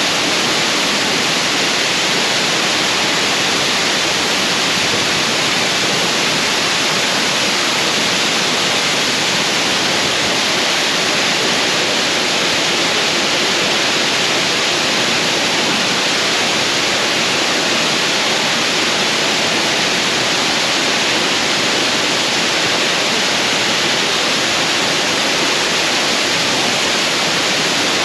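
Waterfall: water falling and splashing in a loud, steady, unbroken rush.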